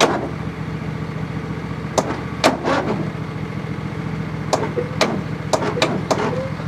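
A steady low mechanical hum from something running, with several sharp clicks and knocks from handling parts or tools.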